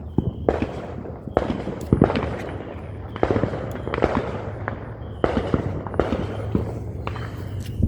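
Fireworks going off: a steady run of sharp bangs, about one or two a second, each trailing off into crackling.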